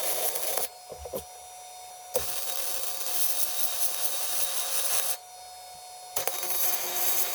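DeWalt portable band saw running and cutting, in three spells of scraping, hissing cutting noise over a steady motor tone, with short quieter pauses about a second in and about five seconds in.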